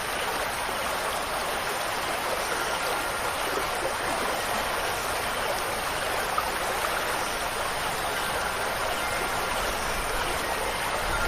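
Steady rushing water with an even hiss and no pauses. Faint high wind-chime tones begin ringing near the end.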